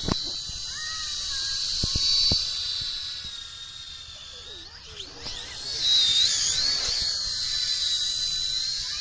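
High-pitched, steady whine of a toy remote-control aircraft's small electric motors and rotors in flight, swelling louder about two seconds in and again about six seconds in.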